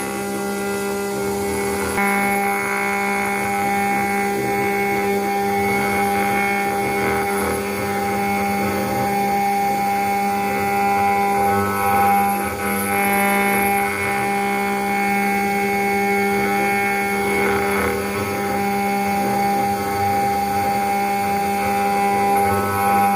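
CNC router engraving machine's spindle running with a steady whine, its 1 mm ball-nose tool cutting into a brass plate.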